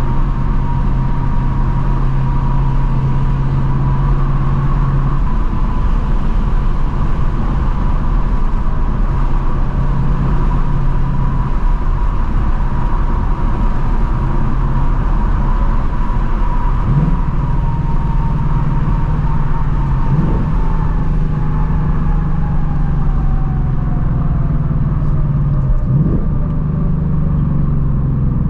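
Stock 2024 Ford Mustang GT's 5.0-litre V8 and active exhaust running at a steady cruise, a low drone with a few brief blips in pitch. Near the end a higher tone falls steadily in pitch.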